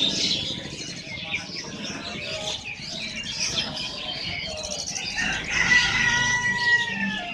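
Many caged birds chirping and calling at once in a dense, overlapping chorus. About five seconds in, a long steady whistle holds for some two seconds and drops slightly as it ends.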